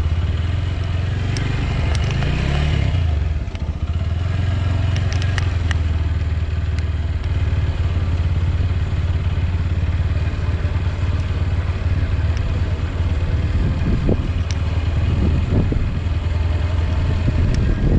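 Motorcycle engine running steadily at low revs while being ridden, with a brief change in engine note a couple of seconds in and scattered light clatter and clicks.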